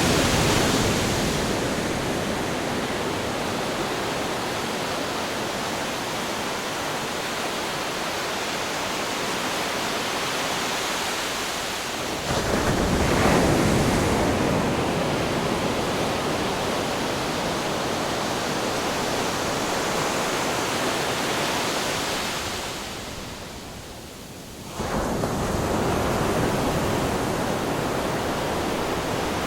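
Ocean waves crashing on rocks in a continuous rush of surf. A louder wave breaks about twelve seconds in. Near the end the surf dies down for a moment, then cuts back in abruptly.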